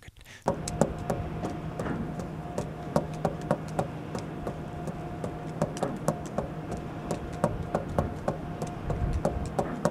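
Bounce juggling: balls striking the floor and slapping into the hands, a quick stream of knocks and taps, a few a second.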